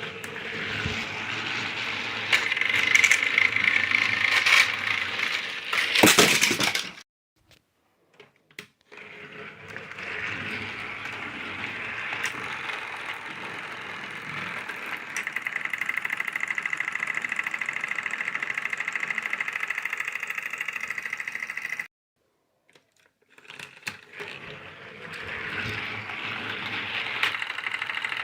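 Small geared motor of a battery-powered toy train whirring steadily, with a loud clatter about six seconds in; the whir cuts out twice and starts again, at one stretch with a fast fine ticking.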